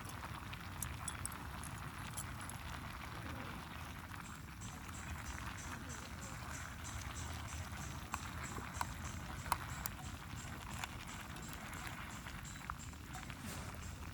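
Faint campfire crackling with scattered sharp pops over a steady low rumble. From about four seconds in there is also a high, evenly spaced ticking.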